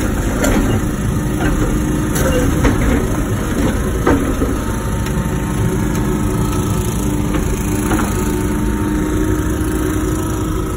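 Wacker Neuson ET145 excavator's diesel engine running steadily under work, with a faint steady hydraulic whine, punctuated by several sharp knocks and clanks, the loudest about four seconds in.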